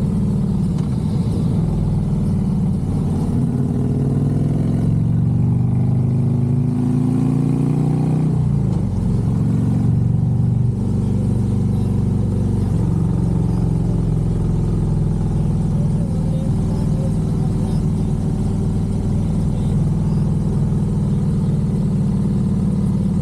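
Harley-Davidson Road Glide's V-twin engine under way, its pitch climbing for about eight seconds as it pulls, dropping sharply, then holding steady at cruise.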